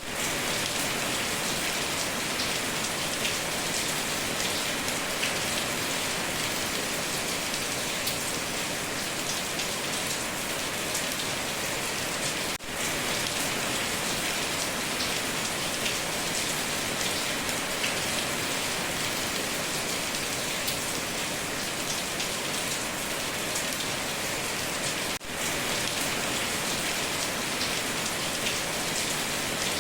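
Heavy rain drumming steadily on a tin roof, a dense hiss of countless drop impacts. The sound drops out for an instant twice, about a third and two thirds of the way through.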